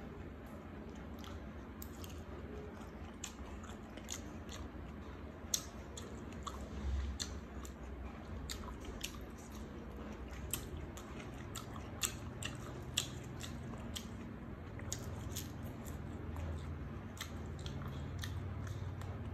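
Close-miked chewing of a mouthful of egg wrapped in fresh herb leaves: soft, wet chewing with many sharp mouth clicks and smacks scattered throughout.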